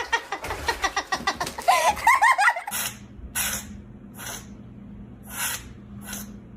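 A pet sneezing five times in quick succession, each sneeze a short hissing burst. Before it comes a rapid run of short, high-pitched vocal sounds.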